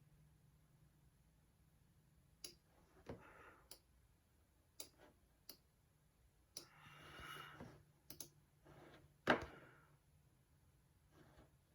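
Computer mouse clicks: about ten single clicks at irregular spacing, the loudest about two-thirds of the way in, with a few soft rustles between them over a faint low hum.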